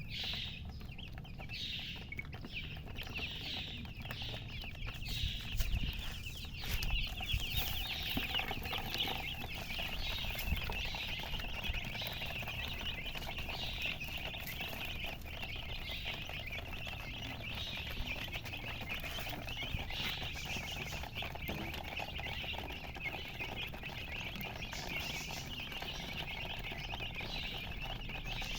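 A brood of newly hatched chicks peeping loudly together: a dense, unbroken chorus of short, high chirps.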